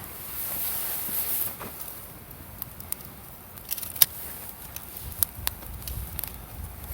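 Wood campfire crackling, with scattered sharp pops; the loudest comes about four seconds in. A soft rushing noise runs through the first second and a half.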